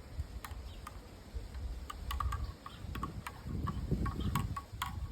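Campfire crackling: irregular sharp pops and snaps over a low rumble.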